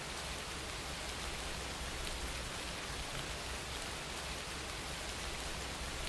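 Steady rain falling, an even patter of drops on a surface with no breaks.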